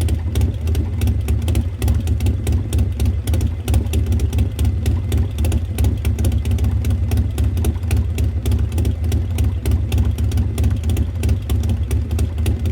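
Harley-Davidson Milwaukee-Eight V-twin idling steadily through a Burns Stainless 2-into-1 exhaust, a deep even rumble of firing pulses, with an S&S 475 cam and Performance Machine Super Gas air cleaner fitted.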